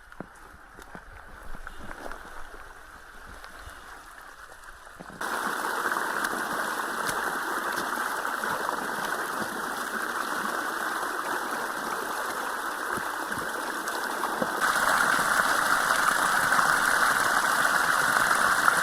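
Running water of a flooded mountain stream, a steady rushing that jumps abruptly louder about five seconds in and again near fifteen seconds.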